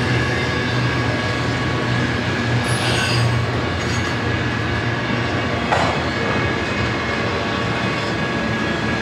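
Loaded double-stack container well cars rolling past: a steady rumble of steel wheels on rail with a thin, steady wheel squeal, and one sharp knock a little past the middle.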